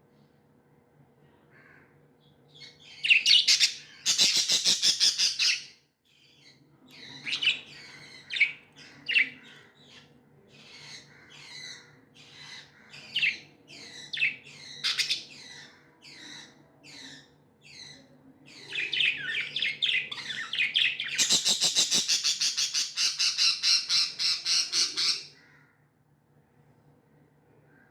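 Budgies chirping and chattering: a loud burst of rapid calls a few seconds in, then a string of separate chirps, and another long, loud run of rapid calls near the end.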